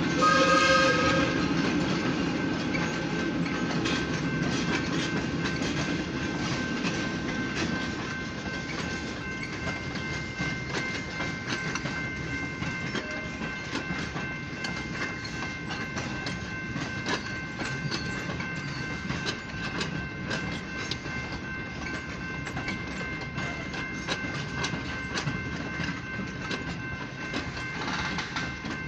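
Passenger train cars rolling past with a steady clickety-clack of wheels over rail joints, getting quieter over the first several seconds. The tail of a locomotive horn blast ends about a second in. Grade-crossing bells ring throughout.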